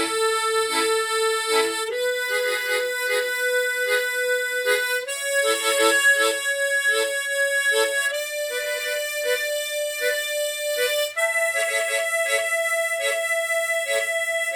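An A-key harmonica plays the bass accompaniment technique in a four-beat pattern: a held melody note over short, rhythmic chord pulses. The held note steps up in pitch four times.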